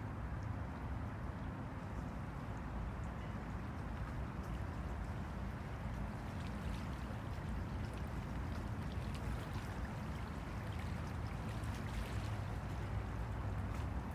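Small waves on the Han River lapping and splashing, a steady wash over a low rumble, with light splashy ticks coming more often in the second half.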